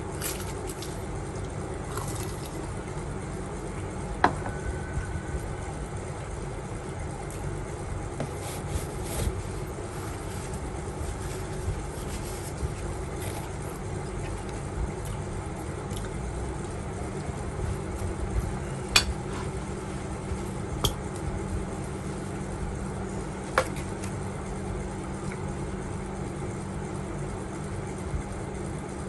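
Utensils clinking against dishes a few times during a meal, over a steady low hum in the background.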